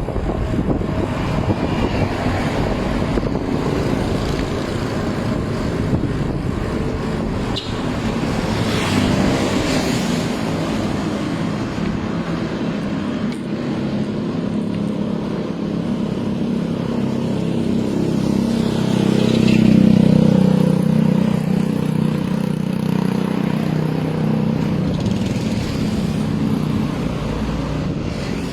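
Road traffic passing close by while riding a bicycle, a steady noisy wash with wind on the microphone. A louder engine vehicle passes about twenty seconds in, its drone rising and then fading.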